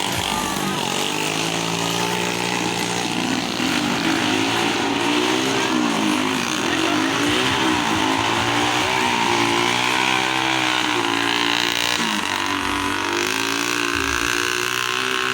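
Motocross dirt bike engines revving, the pitch rising and falling over and over as the bikes are ridden through the course.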